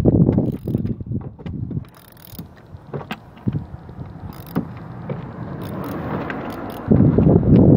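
Socket wrench with a spark-plug socket and extension being worked to unscrew a spark plug: a run of clicks and metal-on-metal knocks. Low rumble from the hand-held phone's microphone is loudest at the start and again near the end.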